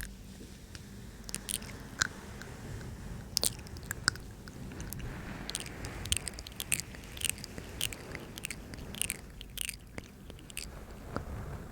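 ASMR mouth sounds close to the microphone: a string of short, wet clicks and smacks of lips and tongue at irregular intervals.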